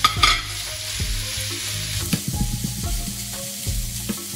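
Fried rice sizzling in a hot wok as steamed rice is stirred into vegetables and meat, with a spatula knocking and scraping against the pan now and then. There is a louder burst of sizzling right at the start, as the rice goes in.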